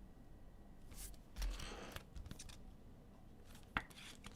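Trading cards being handled: a short rustling sweep of cards about a second and a half in, and a sharp click near the end.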